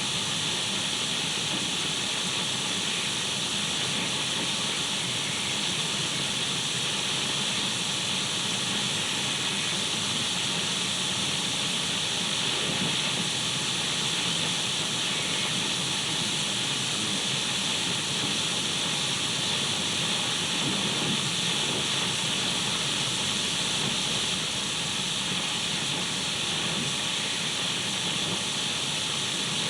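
Radio static: a steady, even hiss, brightest in the upper middle range, with no change in level.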